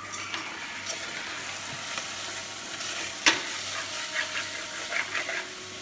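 Onions and spice paste frying in oil in a pan, sizzling while being stirred, with small scrapes and one sharp knock against the pan a little over three seconds in.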